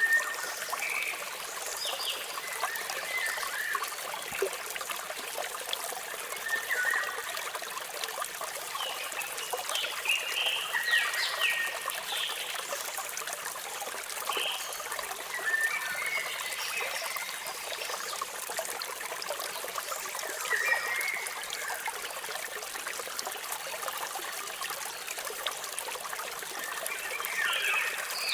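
Waterfall water splashing and trickling steadily, with birds chirping in short calls every few seconds.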